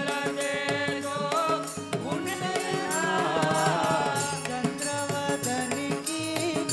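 Devotional bhajan music: a singing voice with instrumental accompaniment and a steady beat of sharp percussion strikes.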